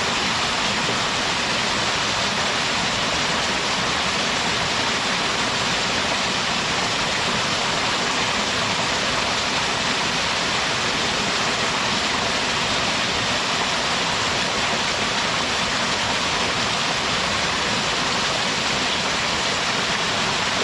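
Small mountain-stream waterfall, water pouring and splashing steadily with an even rushing hiss.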